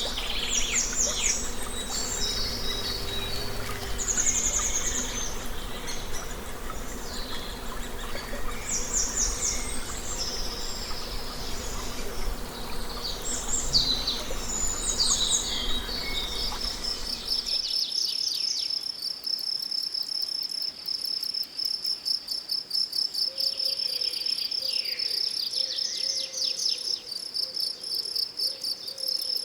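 Songbirds singing in repeated high trills over a low background hum. About two-thirds of the way through, the sound switches to a steady, fast-pulsing chirring of crickets, with a few bird calls.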